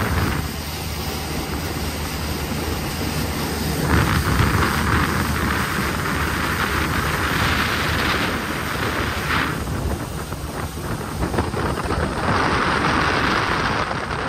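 Jet boat running at speed: a steady low engine drone under wind buffeting the microphone and rushing spray, with the hiss swelling twice.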